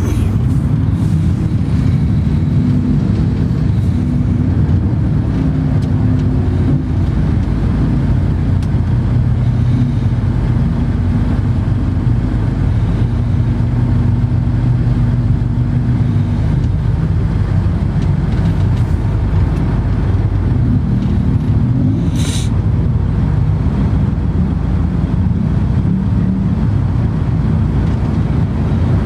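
Steady low rumble of a motor vehicle, with engine tones that drift slightly in pitch, and one brief sharp click late on.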